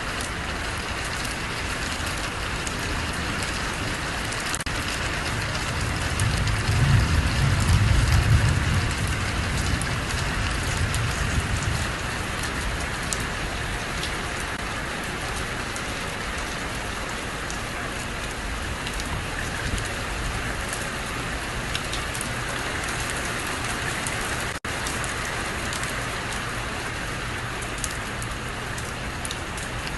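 Steady heavy rain falling and pattering on hard surfaces, with a low rumble that swells and fades between about six and twelve seconds in.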